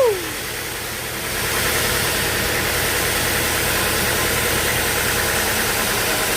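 An engine running steadily, growing louder about a second in and then holding even.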